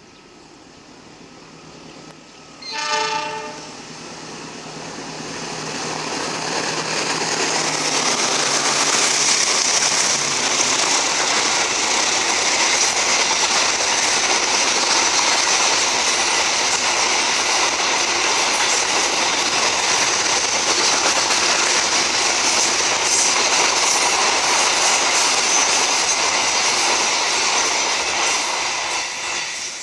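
A train horn gives one short blast about three seconds in. Then a train runs past at close range: the wheel and rail noise of its carriages builds up, stays loud and steady for about twenty seconds, and begins to fade near the end.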